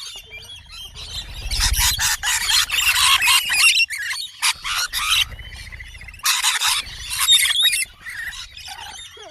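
Several birds squawking and chirping shrilly, in loud bursts of overlapping calls with quieter chatter between.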